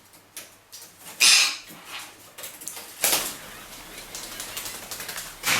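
Indian ringneck parrots flapping their wings in several short bursts, the loudest about a second in and again around three seconds, with rustling flutters between.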